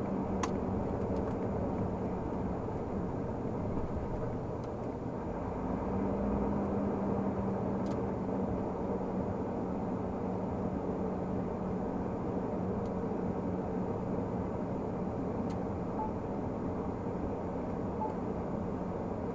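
Renault Magnum 480 truck's diesel engine running steadily under way, with road noise, its drone swelling a little about six seconds in.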